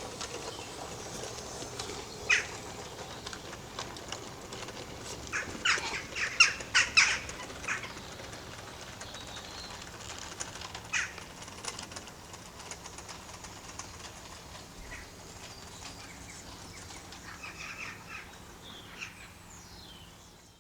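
Birds calling outdoors: scattered short, sharp chirps, clustered a few seconds in, with a brief falling call near the end, over a faint steady background.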